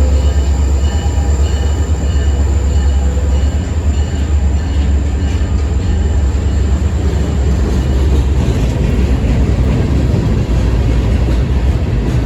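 EMD GP40-2 diesel locomotive's turbocharged 16-cylinder two-stroke engine revving, a loud, deep, steady drone. Faint higher whining tones fade out in the first few seconds, and light clicking comes in near the end.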